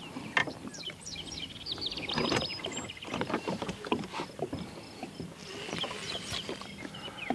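Kayak drifting through cattails and marsh grass: a steady run of light scrapes, ticks and knocks as stems brush and bump along the hull and gear.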